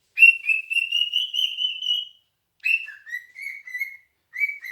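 A cockatiel calls loudly in a harsh whistle: one long wavering call, then a call that drops in pitch and breaks into a run of shorter notes. Another call begins near the end.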